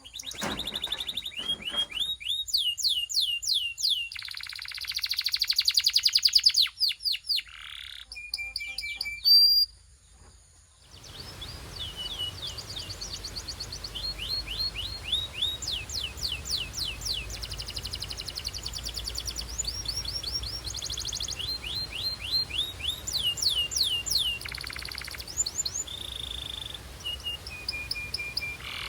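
Belgian canary singing: phrases of fast repeated downward-sliding whistled notes, with a dense rapid trill a few seconds in. The song breaks off briefly about a third of the way through, then resumes over a faint steady hiss.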